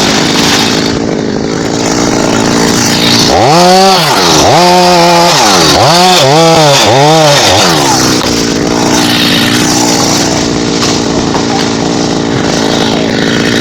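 Chainsaw engine running loudly. In the middle its pitch swings up and down several times as it is revved, then it settles back to a steady run.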